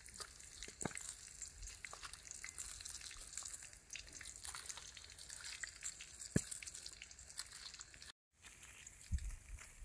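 Food frying in hot oil: a steady sizzle with scattered pops and crackles, cut off briefly about eight seconds in.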